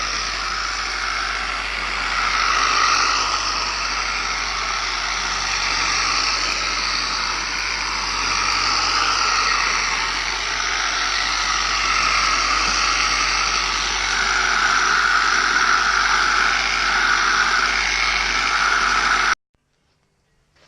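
Electric buffer running steadily against painted bodywork, polishing out sanded scratches with a steady hiss. It cuts off abruptly near the end.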